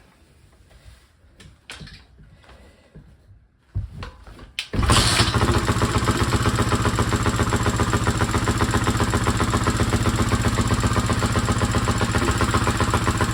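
Old four-stroke dirt bike engine being kick-started: a few short knocks and a brief burst, then it catches a little under five seconds in and keeps running steadily.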